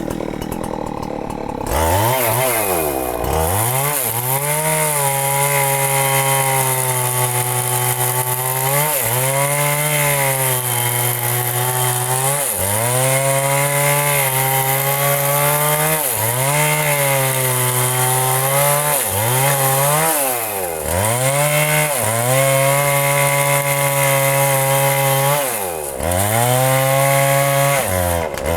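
Chainsaw cutting into a huge tree trunk at full throttle. Its engine pitch sags and climbs back every few seconds as the saw bogs down under the load of the very thick wood. It is quieter for the first two seconds, then revs up.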